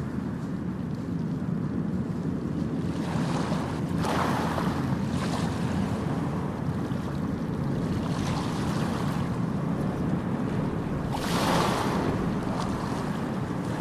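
Ocean surf: waves breaking and washing up every few seconds over a steady low roar of the sea.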